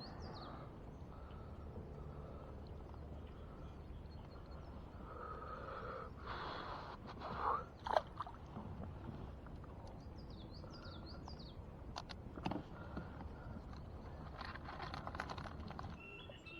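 Outdoor ambience with a steady low rumble, birds chirping, and a few scrapes and knocks from handling, the loudest about seven to eight seconds in and another near twelve seconds.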